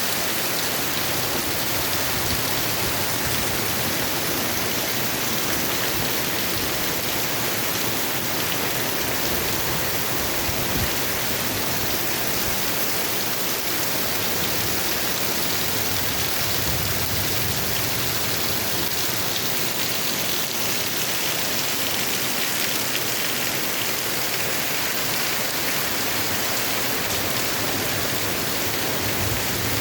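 Heavy rain falling: a dense, steady hiss that does not let up, with a few brief low rumbles about a third and halfway through.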